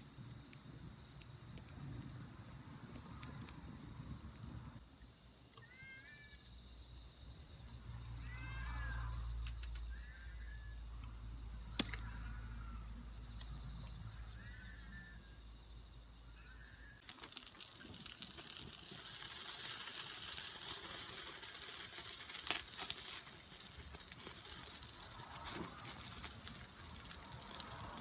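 Autumn crickets trilling as one steady, high-pitched note, with a few short rising-and-falling chirps in the middle. About two-thirds of the way in, a steady hiss with occasional sharp cracks joins them: a campfire burning.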